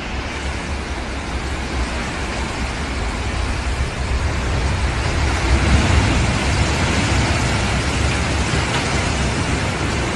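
Storm noise: strong wind buffeting the microphone in a low, fluttering rumble under a dense, steady hiss, slightly louder around the middle.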